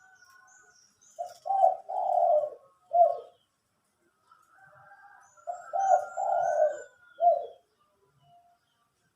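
Spotted dove (dekukur) cooing: two phrases of low notes, each a couple of short coos, a longer drawn-out coo and a final separate coo, with a pause between them. Faint higher chirps from other small birds sound in the background.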